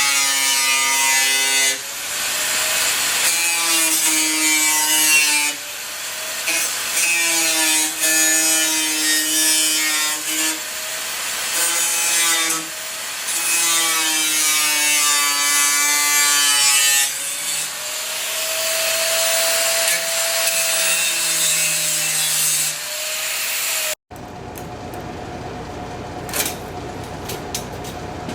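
Electric grinder working on the car's sheet metal, its motor whine dipping and rising in pitch as it is pressed into the metal and eased off. About 24 s in it cuts off abruptly, giving way to a quieter steady hum with a few clicks.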